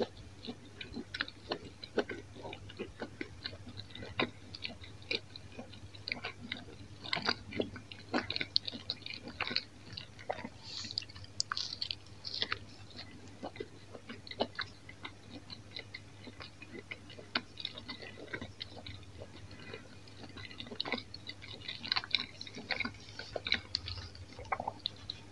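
A mouthful of sausage-and-cheese pizza being chewed: an irregular run of small moist clicks and crackles that goes on throughout.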